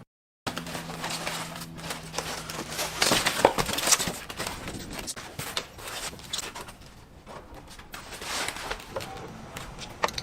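Irregular clicks, taps and rustling, with a faint steady low hum during the first few seconds.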